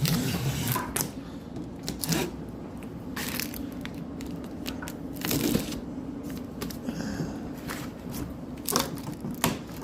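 Cardboard shipping box being worked open by hand: irregular tearing, scraping and crunching of cardboard and packing.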